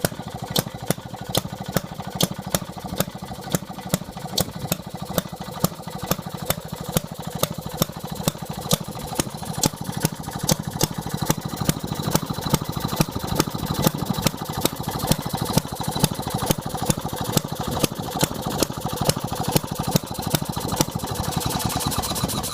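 1919 Maytag 1 hp upright vertical gas engine running steadily, with a sharp click repeating evenly, about two to three times a second, over the fast firing.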